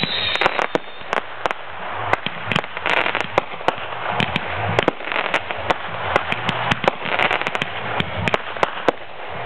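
Fireworks display going off: a rapid, irregular run of sharp bangs and crackles over a continuous noisy haze.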